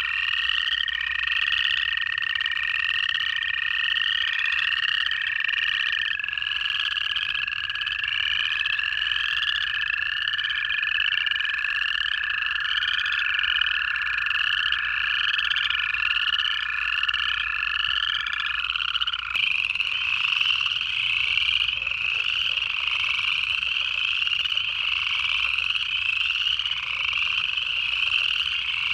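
Dense chorus of upland chorus frogs, their rising trills overlapping continuously. Long, steady trills of American toads run underneath and stop about two-thirds of the way through, after which a quieter, low chuckling of southern leopard frogs can be heard.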